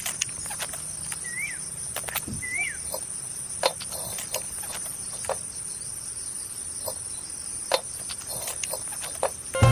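Steady high-pitched insect trill, with two short rising-and-falling bird chirps in the first three seconds and scattered sharp clicks.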